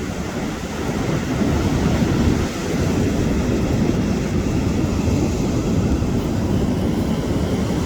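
Wind on the microphone over steady sea surf, a continuous low rumble that grows a little louder about a second in.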